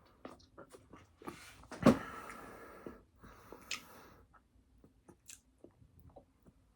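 Close-miked chewing and mouth clicks of someone eating fast food. About two seconds in, a louder sharp noise is followed by about a second of hiss.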